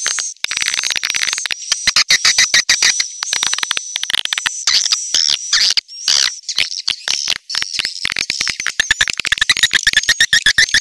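Swiftlet calling-sound lure track: dense, rapid clicking and chattering twitters with a thin, high, wavering whistle over them. About nine seconds in, a lower steady buzzing tone joins.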